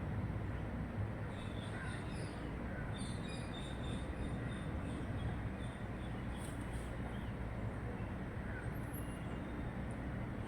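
Steady low outdoor rumble with faint, short high bird chirps scattered through the first few seconds and a brief high call near the end.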